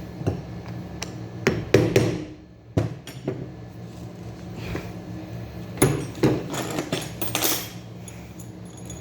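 Metal knocks and taps on truck starter motor parts being worked on: a series of sharp knocks, bunched about two seconds in and again around six to seven seconds in.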